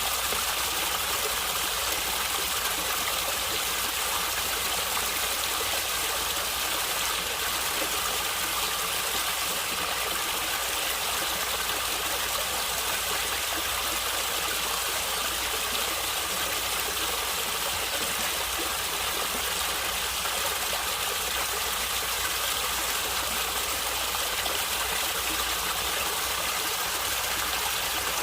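Stream water flowing and gurgling steadily, an even rushing hiss with no breaks.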